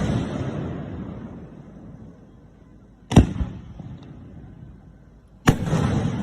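Large aerial firework shells bursting close by: two sharp booms, about three seconds in and again near the end, each followed by a long rolling rumble that dies away over a second or two. At the start the rumble of a burst just before is still fading.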